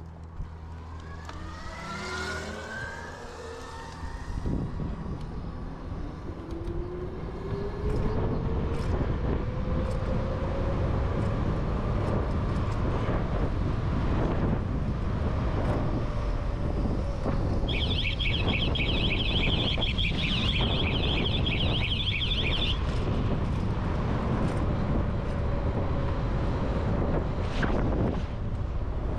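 Electric dirt bike motor whining, its pitch rising as the bike speeds up and then holding steady at cruising speed, under a rush of wind on the microphone that grows louder with speed. For about five seconds past the middle, a fast warbling high tone sounds, like a siren.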